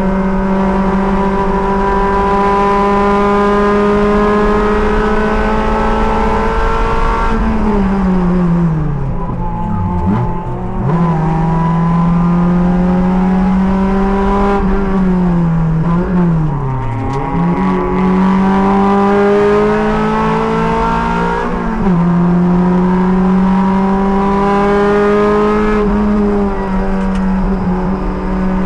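A race car's engine at high revs under full throttle, climbing slowly in pitch. Twice it drops sharply as the driver lifts and brakes with downshifts, the revs jumping briefly during each drop, then it climbs again on acceleration. A smaller step down near the end is an upshift.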